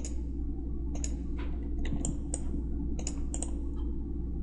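Irregular clicks of a computer mouse and keyboard, about a dozen in a few seconds, over a steady low hum.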